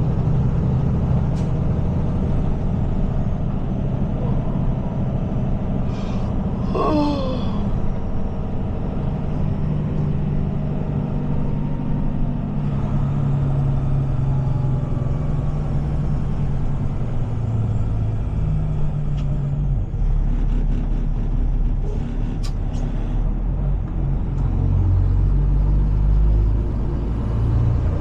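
Heavy-duty tow truck's diesel engine running under way with a steady low hum and road rumble, the rumble deepening in the second half. A brief wavering squeal about seven seconds in.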